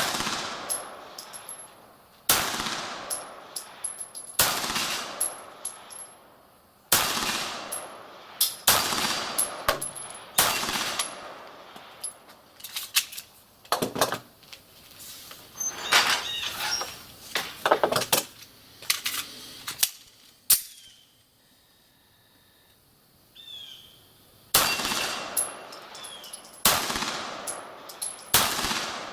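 Beretta 92G Elite Compact 9 mm pistol firing single shots about two seconds apart, each followed by a high ringing, typical of steel plate targets being hit. Mid-way come quicker, fainter cracks and clinks, then a short lull, then three more shots near the end.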